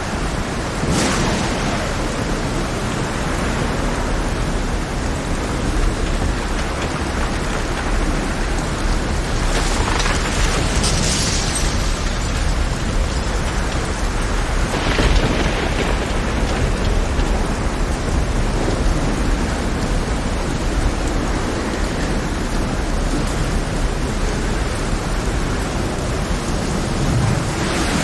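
Heavy rain over a rough sea with a deep, steady rumble underneath, a dense even wash of noise. A few brief louder surges stand out, about a second in, around ten seconds and around fifteen seconds.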